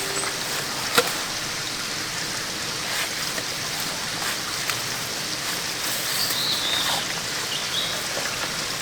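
Steady noise of a valley stream and light drizzle. There is a sharp click about a second in and a couple of short high chirps past the middle.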